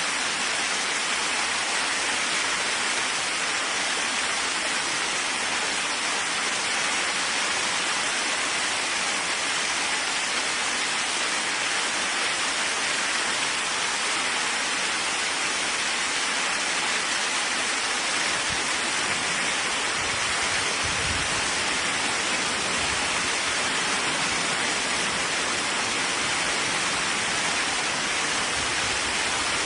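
Steady heavy rain, an even hiss with no breaks, with a brief low rumble about two-thirds of the way through.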